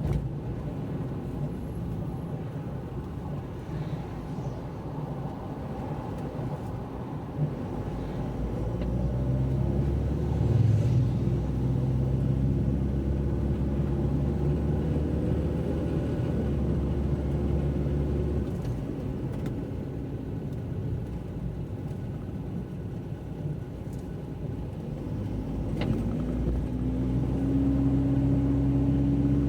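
Car driving on a wet road: a steady low rumble of engine and tyres. Near the end an engine note rises as the car speeds up.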